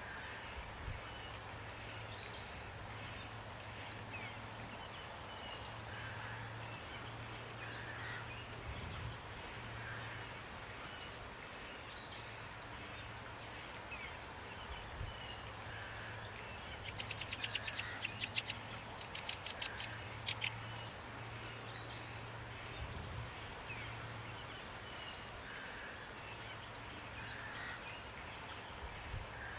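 Birdsong over steady rain: repeated high, downward-sweeping chirps and calls, with a rapid trill in the middle, against an even hiss of rainfall.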